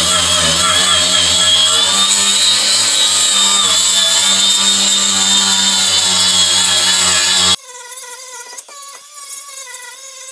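Angle grinder with a flap disc grinding paint and rust off steel, a steady high whine with rough grinding noise. It cuts off abruptly about seven and a half seconds in, leaving only a faint steady hum.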